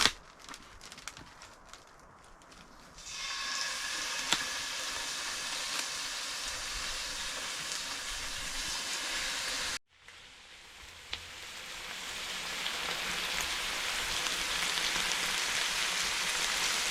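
Steak sizzling in a hot cast iron pan: a few light knocks, then a steady sizzle that starts suddenly about three seconds in. After a brief break near the middle, the sizzle builds up again.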